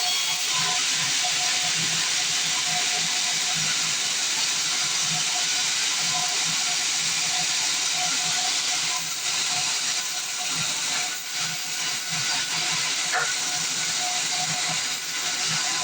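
Band sawmill running, a steady loud hiss that dips briefly around the middle.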